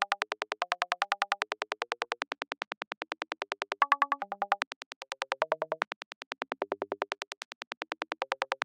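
VCV Rack software modular synthesizer playing a sequenced psytrance sound effect: a rapid, even stream of short plucky synth notes whose pitch steps to a new note about every half second.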